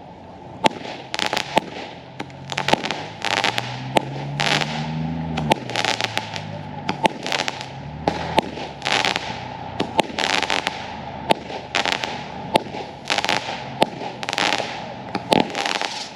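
Fireworks going off in a rapid series of sharp bangs and crackling bursts, about one to two a second.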